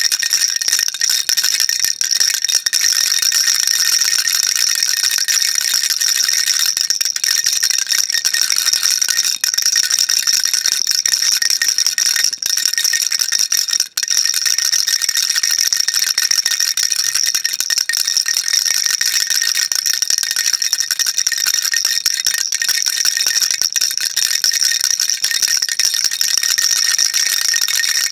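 Baby rattle shaken continuously, a dense, steady, high-pitched rattle of small pellets, with two brief breaks about halfway through.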